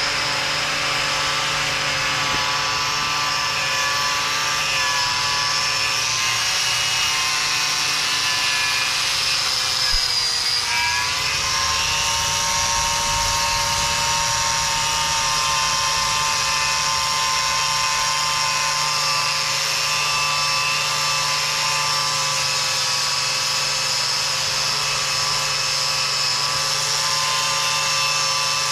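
Angle grinder fitted with a stiff wire cup brush, running steadily while scouring old undercoat off the machine's surfaces. About a third of the way through, its whine sags briefly in pitch as it is pressed harder, then picks back up.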